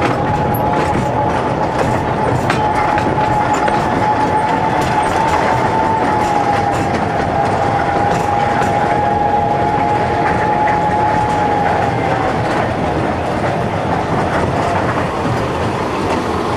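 Snowdon Mountain Railway rack train running slowly, heard from inside a carriage: steady rumbling running noise with scattered clicks from the wheels on the track. A steady high whine wavers slightly and fades out about twelve seconds in.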